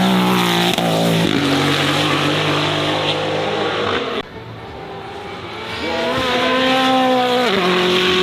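Racing car engine at high revs, its pitch stepping down at a gear change about a second in. About four seconds in the sound cuts off abruptly to a quieter stretch, then an engine builds again and drops in pitch at another gear change near the end.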